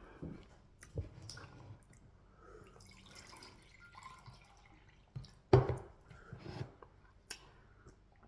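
Wet eating sounds of fufu with peanut soup: scattered soft sticky mouth smacks and chewing, with a louder wet smack a little past halfway.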